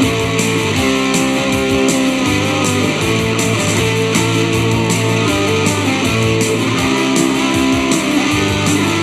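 Rock and roll band playing an instrumental break: electric guitar over bass and drums with a steady beat.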